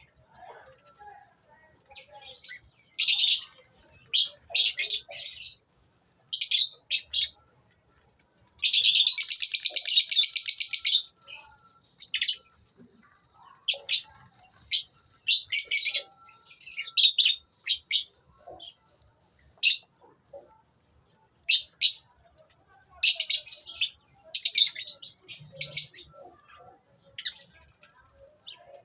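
Lovebirds chirping, short shrill calls in scattered bursts, with one longer run of rapid chattering about nine seconds in that is the loudest part.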